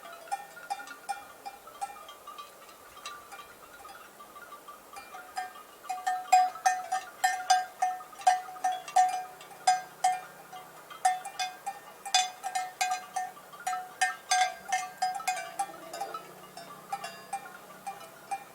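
Cowbells on grazing cows clanking irregularly, several strikes a second, louder and busier through the middle.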